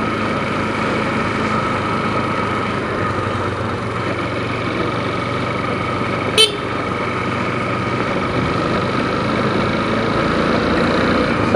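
Kawasaki KLX 150L's single-cylinder engine running steadily while the bike is ridden, with a constant drone of engine, road and wind noise. A single sharp knock about six and a half seconds in.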